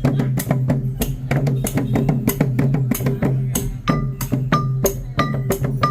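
Fast percussion music: drums and sharp, wooden-sounding strikes several times a second over a steady low hum. From about halfway in, short ringing tones join in about every two-thirds of a second.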